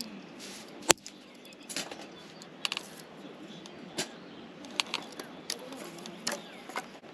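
Irregular light clicks and knocks, about a dozen, over a faint steady hiss, as of small hard objects being handled; the sharpest knock comes just under a second in.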